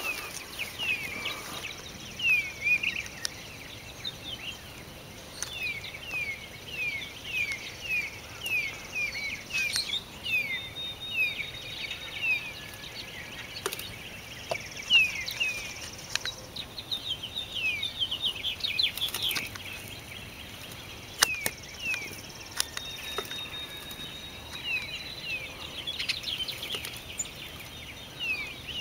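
Small songbirds chirping: runs of short, quick down-slurred chirps, several a second, pausing and starting again. A few sharp taps stand out now and then.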